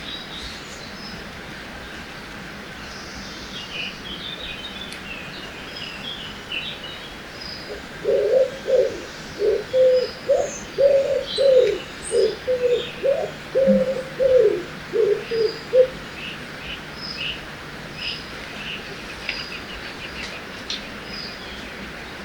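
Forest birdsong over a steady rushing background. A bird gives a run of low cooing calls, about two notes a second for some eight seconds in the middle. Smaller birds make short high chirps throughout.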